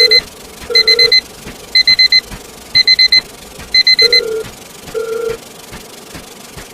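Digital alarm clock beeping: groups of four quick high beeps, repeated about once a second, five times, then stopping. Shorter, lower tones sound alongside the first group, again with the last group, and once more about a second after it.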